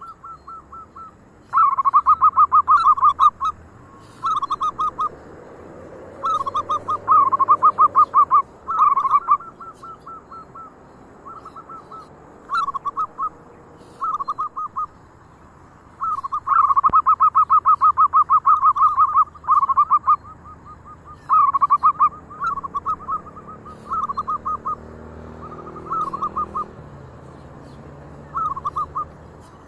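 Zebra doves (perkutut) cooing: repeated phrases of quick, rolling staccato notes, some loud and close, others fainter and answering.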